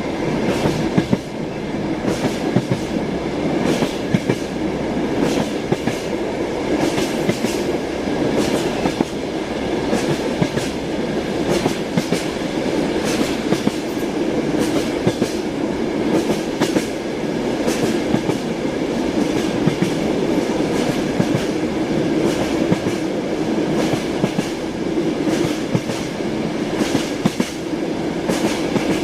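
Train wheels clattering over rail joints with a steady rumble, as heard riding in a railway carriage: a continuous clickety-clack of sharp knocks over a low running drone.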